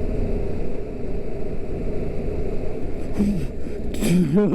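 Yamaha MT-07 parallel-twin engine running steadily under way, heard from the rider's mic with wind and road noise.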